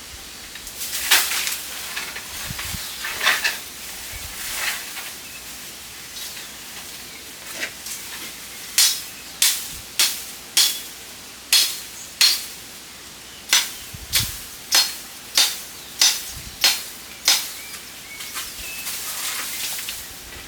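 A hand tool striking wood about a dozen times in a steady series of sharp blows in the second half, each with a short ring, mostly under a second apart. Before the blows come scraping and rustling.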